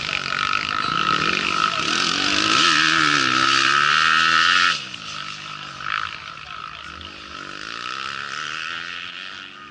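Rally-raid motorcycle engine revving hard, its pitch rising and falling again and again as it goes through the gears. The sound is loud until about five seconds in, then drops suddenly and goes on quieter, still rising and falling.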